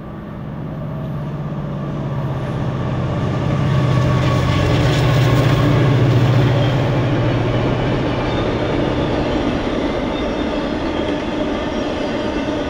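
Long freight train rolling past on the railroad track, a dense rumble of freight cars with a steady low hum. It grows louder over the first few seconds, peaks midway, then runs on a little quieter.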